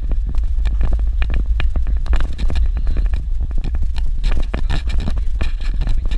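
A vehicle driving over a rough dirt road: a steady low rumble with constant rattling and knocking.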